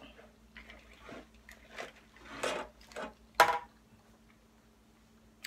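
Close-up chewing of a mouthful of spinach salad, in short irregular bursts, with a metal fork clinking once against the glass salad bowl about three and a half seconds in.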